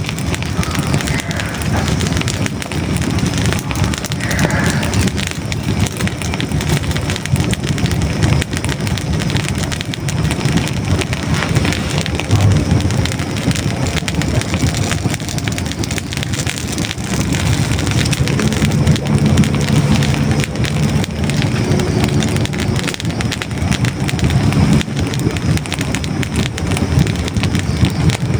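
Hardwood logs burning in a fireplace, crackling and popping densely over a steady low rumble of the flames. Near the end a few faint steady tones sound under the crackle.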